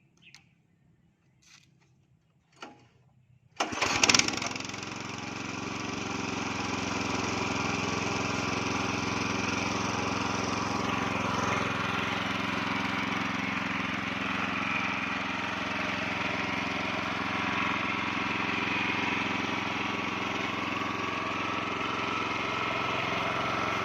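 Rotovator's small gasoline engine starting about three and a half seconds in with a brief louder burst, then running steadily. The engine runs again after its dirty carburetor, fuel tank and cracked fuel line hose were cleaned and replaced.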